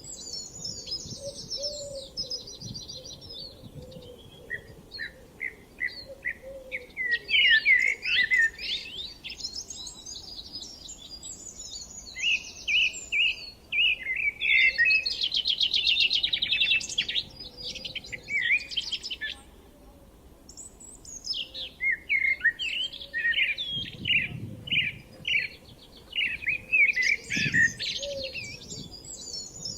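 Several songbirds singing at once in a spring dawn-chorus style, with overlapping chirps, warbling phrases and fast trills. There is a faint low rumble a couple of times near the end.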